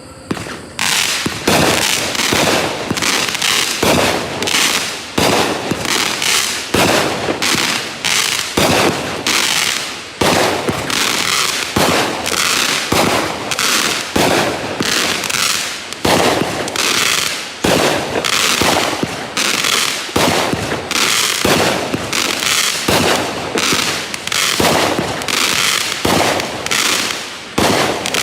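Fox Fireworks 'Mutant Strain' multi-shot aerial firework cake firing continuously, about two shots a second, each a sharp bang with a short fading tail.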